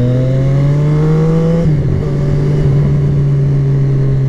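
Motorcycle engine pulling under throttle, its pitch climbing slowly, then an upshift about a second and a half in, after which it runs at a steady cruise. Wind rumble on the helmet microphone runs underneath.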